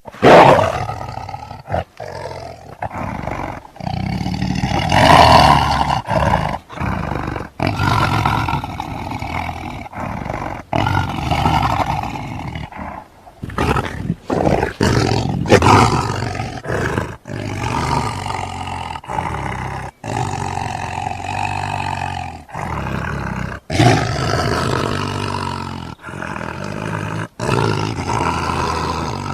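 Lion roaring and growling: a long run of deep roars that starts suddenly out of silence and is broken by many short, abrupt gaps. The loudest roar comes right at the start, with another loud one about five seconds in.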